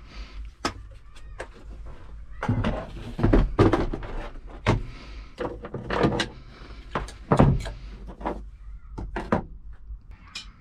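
A run of irregular knocks, thuds and clatters, starting sparse and growing louder and busier from about two and a half seconds in.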